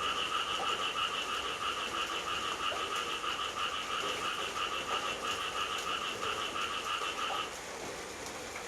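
A frog calling in a continuous rapid trill that breaks off near the end, over steady night rain.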